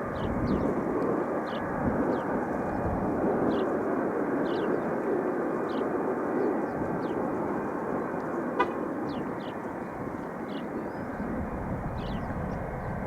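Boeing 707's Pratt & Whitney turbofan engines running steadily, with short high chirps about once a second over the top.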